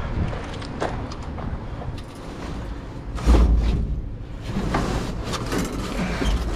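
Hands rummaging through a box of scrap wire and metal pieces: scattered clicks and rattles, with a louder heavy thump a little over three seconds in.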